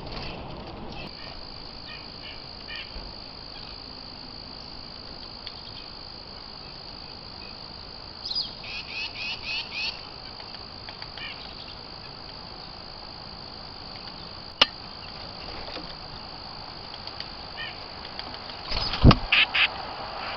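A steady high-pitched whine runs throughout, with a quick run of about six bird chirps near the middle and a sharp click later. Near the end comes a thump, followed by a few more loud chirps.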